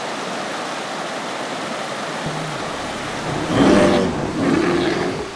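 Steady rush of a rain-swollen river running in rapids. About three and a half seconds in, a louder pitched sound with several tones cuts in over it, then drops away near the end.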